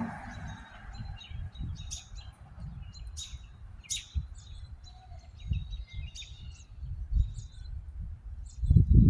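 Songbirds chirping, many short, quick high notes one after another, over a low, uneven rumble of wind on the microphone.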